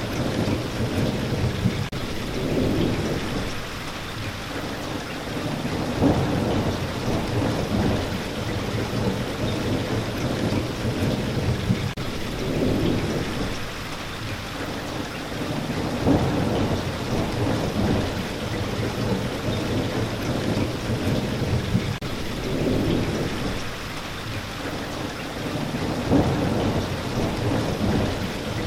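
Steady rain falling, with low rolls of thunder swelling and fading every few seconds.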